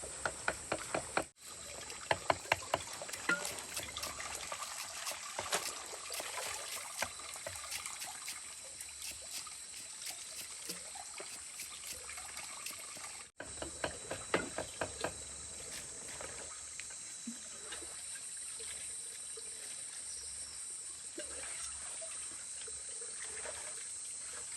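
Water trickling and splashing over a steady hiss, with a quick run of sharp clicks near the start.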